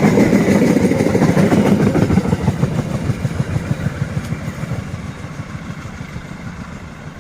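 Train passing and receding, its wheels clattering on the rails, the sound fading steadily away.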